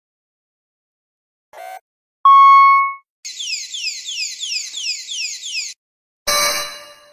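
A succession of electronic emergency alarm sounds. First a brief faint blip, then a loud single beep about two seconds in. Next comes a rapidly repeating falling sweep, about four a second, for a couple of seconds, and a harsh buzzer blast near the end.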